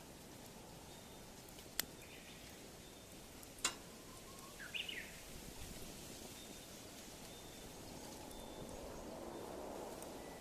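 Wood fire burning, with two sharp pops from the firewood about two seconds apart. A bird chirps briefly just after the second pop, over steady outdoor hiss.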